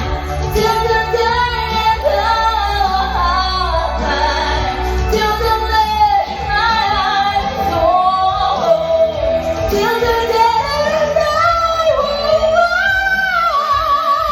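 Music: a female voice sings a slow pop melody over a steady accompaniment.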